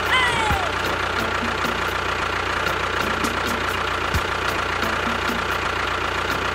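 Small engine running steadily at idle with a regular knock, about three beats a second, from a DIY mini tractor-bulldozer.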